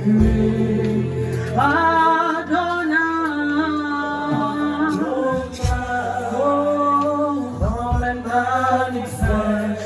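Worship music: singing in long held notes over a steady low sustained accompaniment, with a few low thumps in the second half.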